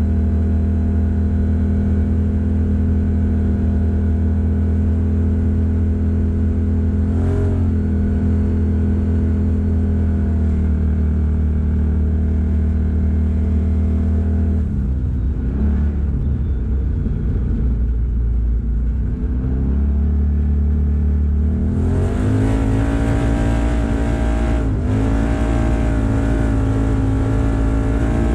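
Original Ford Maverick's engine pulling the car along at a steady cruise. It eases off and wavers about halfway through, then accelerates with a rising pitch about 22 seconds in, with two brief dips along the way.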